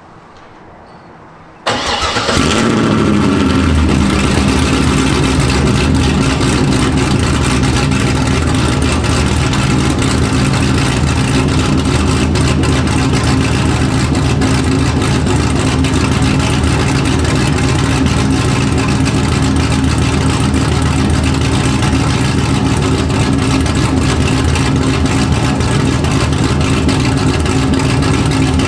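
Chevrolet Corvette C6 V8, fitted with a BTR Stage 3 camshaft and Speed Engineering headers, X-pipe and dual exhaust, starting up about two seconds in. It flares briefly, then settles within a couple of seconds into a loud, steady idle.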